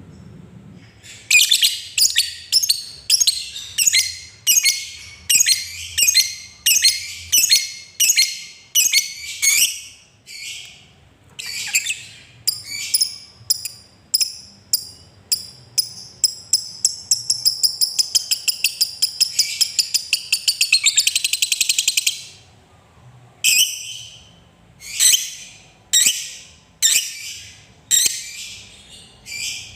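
Lovebird calling in shrill, high-pitched chirps, roughly two a second, which speed up past the middle into a fast chattering trill of about five seconds (the long 'ngekek' lovebird keepers prize), then break off briefly before the single chirps resume.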